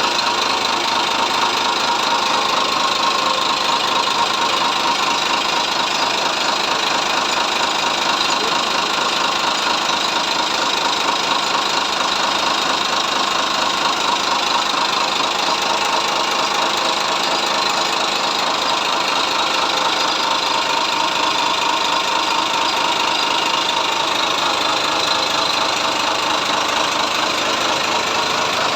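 Sinotruk 280 hp diesel engine running steadily, with a fast, even clatter.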